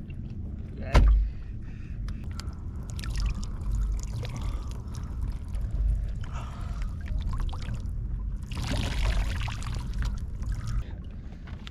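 Water sloshing and splashing around a kayak, in several swells of hiss over a steady low rumble, with one sharp knock about a second in.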